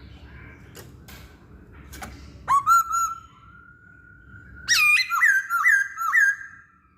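Masked laughingthrush (poksay Hongkong) singing whistled notes: a short run of hooked whistles, a faint held note, then a louder string of about five repeated down-hooked whistles. A few faint clicks come before the song.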